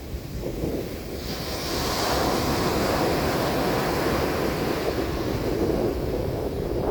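Mediterranean Sea waves breaking on a beach. The surf is quieter at first, then swells about a second in into a sustained wash over a low rumble.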